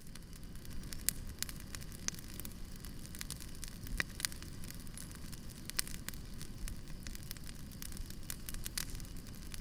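Wood campfire crackling, with frequent sharp pops over a low, steady rumble.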